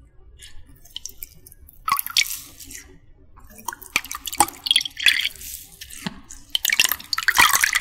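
Water splashing and dripping close up, in irregular bursts, heaviest near the start, the middle and the end.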